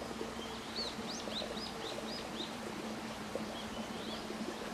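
A small bird sings a quick run of about seven high, arching notes, then a shorter phrase near the end. A steady low hum and an even outdoor hiss run underneath.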